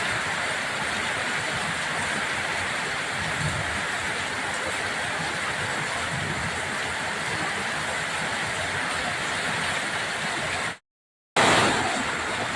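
Steady rushing of heavy water from torrential rain and flooding, an even noise without a beat. It cuts out for about half a second near the end, then comes back briefly louder.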